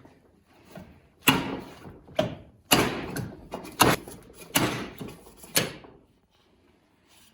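Dirt bike front fork tube slid hard against its outer leg like a slide hammer, about six sharp metal clunks a second or less apart, knocking out the fork oil seal and bushing. The knocks stop about six seconds in.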